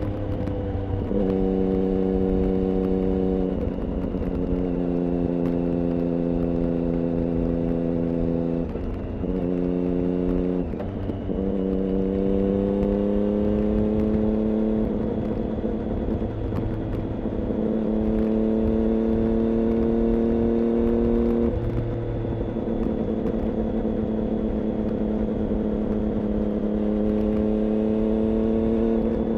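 Triumph Daytona 675's three-cylinder engine running through an IXIL aftermarket exhaust at moderate revs. The pitch holds steady for stretches and steps abruptly up or down several times.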